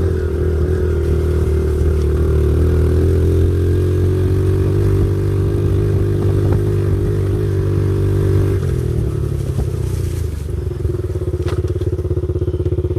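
Pit bike's single-cylinder engine running at steady speed under way, then dropping off about two-thirds through and settling to an evenly pulsing idle as the bike comes to a stop.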